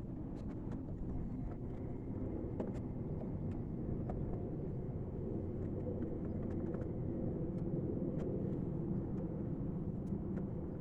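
Steady low rumble with scattered light plastic clicks and ticks as a new cabin air filter is worked into its housing.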